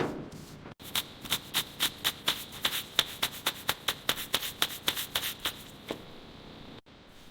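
A rapid, regular series of sharp taps, about four a second, over a steady high ringing tone; they stop near the end.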